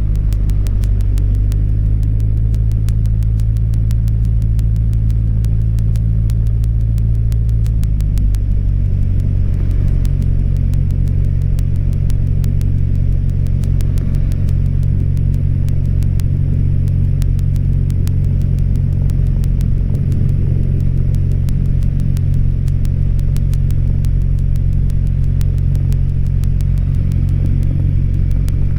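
Cessna 172's single piston engine and propeller running steadily at low power, its pitch shifting slightly about eight seconds in.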